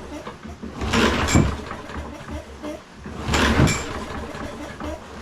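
John Deere JS36 walk-behind lawnmower's recoil starter pulled twice, about two and a half seconds apart, each pull cranking the engine briefly without it firing. The engine will not start.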